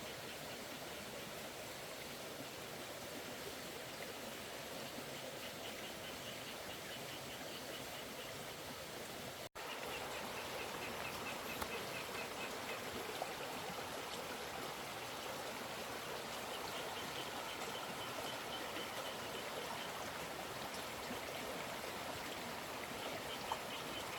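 Steady rush of flowing water, as of a stream or floodwater running, with a brief cut in the sound about nine and a half seconds in.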